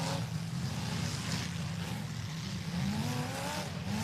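Demolition derby cars' engines running in a steady low rumble, one engine revving up about three seconds in.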